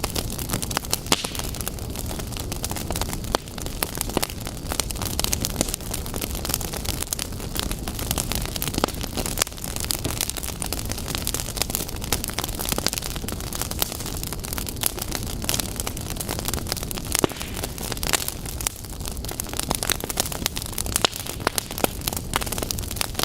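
Fireplace wood fire burning, with a steady low rumble of flames and frequent sharp crackles and pops from the logs.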